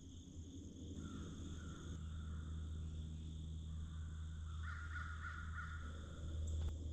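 Harsh bird calls, loudest a little past halfway, over a steady high insect drone.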